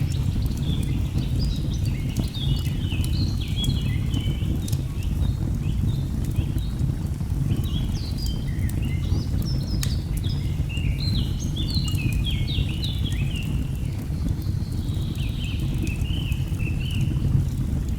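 Nature ambience mix: birds chirping in quick short notes, in two busy spells, over a steady low rumble of a waterfall, with sharp crackles and pops of a burning wood fire.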